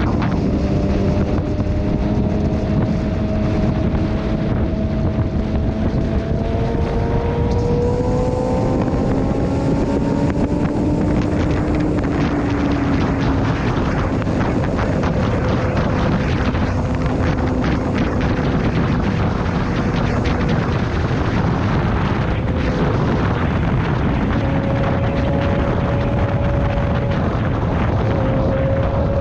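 Motorcycle riding at speed, the engine note slowly rising and falling, under heavy wind rush on a helmet or bike camera microphone.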